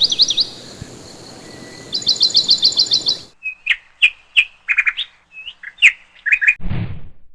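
Birds chirping: quick runs of repeated high trills, then about three seconds in a change to a series of separate short chirps. Near the end, a brief low whoosh.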